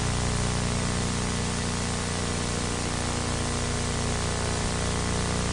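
Steady hiss with a low electrical hum and its overtones, unchanging throughout: recording background noise with no other sound.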